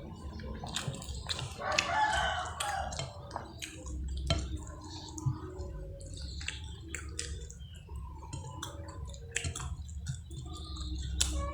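A rooster crowing once, about two seconds in, over scattered short clicks and smacks of someone chewing and eating.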